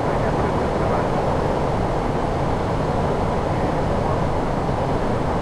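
Steady rushing noise on the flight deck of an Airbus A340-600 in flight during its approach.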